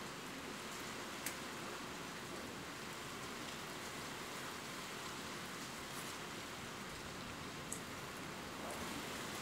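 Steady rain: an even hiss of falling rain, with a couple of sharp drop ticks, one about a second in and one near the end.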